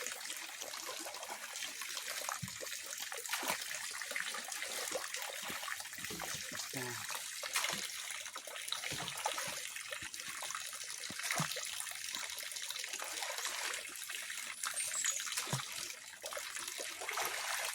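Pond water splashing and trickling as the fish pond is cleaned, with irregular strokes through the water.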